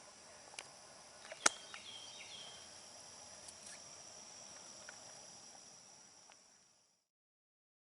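Steady high-pitched chorus of crickets and other insects, broken by a few sharp clicks, the loudest about a second and a half in, and a brief high chirp. The sound cuts off suddenly near the end.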